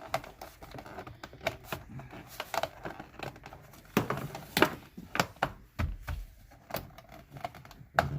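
Plastic car interior trim being handled and pushed into place: irregular sharp clicks and knocks, a few louder thumps, and light rustling as the part is worked into its mounting hole.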